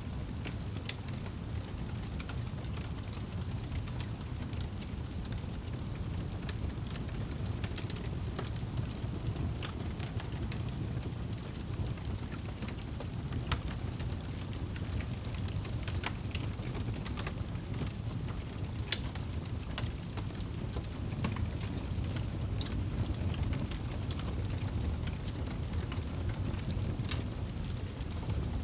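Crackling fire over steady rain: a continuous low rumbling hiss with scattered sharp pops and crackles every second or so.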